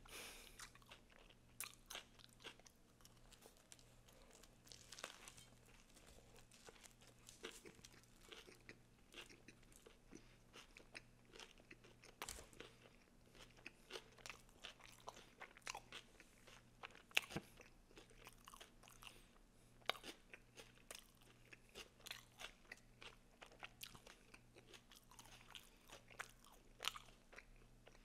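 Faint, close-miked chewing of a Subway sandwich with vegetables: soft, irregular crunches and mouth clicks, with a few sharper bites standing out.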